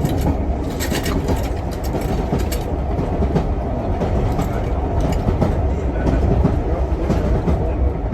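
Jacobite steam-hauled passenger train running on the rails: a steady low rumble with scattered wheel clicks, the clicks mostly in the first few seconds.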